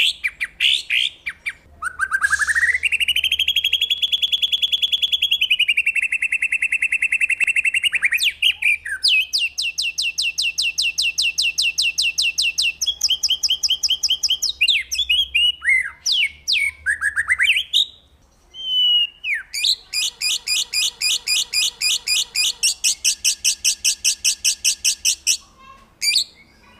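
A songbird singing loud, long trills of rapidly repeated notes, each run lasting several seconds, broken by short varied whistled phrases and brief pauses.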